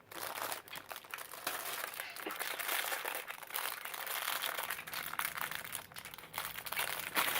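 Thin plastic packaging bag crinkling and rustling continuously as it is handled and pulled open by hand.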